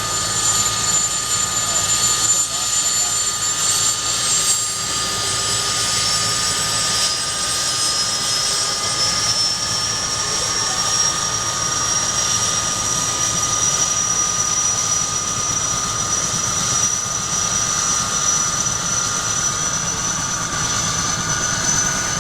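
RCAF Chinook tandem-rotor helicopter running on the ground, loud and steady: the whine of its twin turbine engines over the rumble of the rotors. One whine rises in pitch through the first ten seconds or so, then holds.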